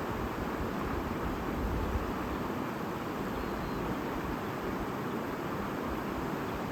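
A babbling stream flowing steadily, an even rushing of water.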